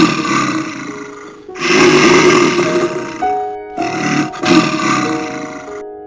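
A large animal roaring three times in long, rough calls of about two seconds each, over background music.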